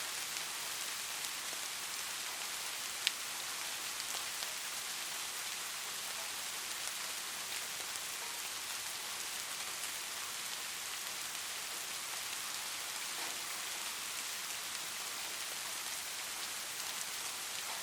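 Light rain falling steadily, a fine even hiss with scattered single drops ticking through it; one sharper, louder drop about three seconds in.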